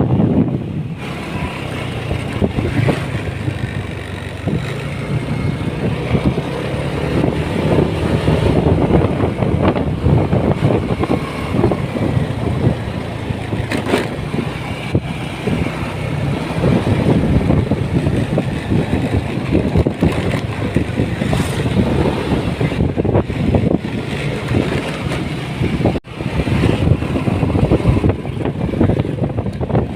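Motorcycle engine running steadily while riding, with road and wind noise; the sound drops out for a moment near the end.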